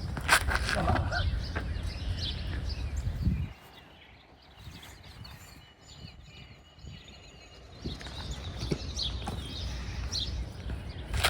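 Small birds chirping, over wind rumbling on the microphone that drops away for a few seconds in the middle, with one sharp knock near the start.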